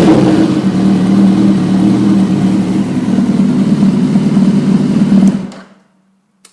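2008 Kawasaki ZX-10R's inline-four running steadily at idle through a RaceFit Growler aftermarket exhaust, then cutting off about five and a half seconds in.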